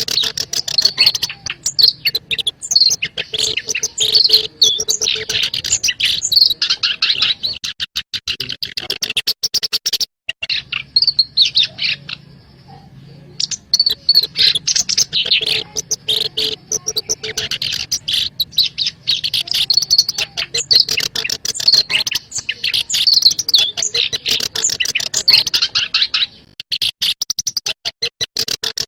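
Black-browed reed warbler song: long runs of fast, scratchy chattering notes, broken by a few short pauses.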